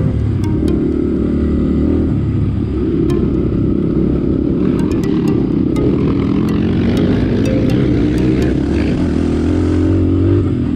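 Dirt bike engine running under load, the revs rising and falling, with scattered sharp clicks throughout.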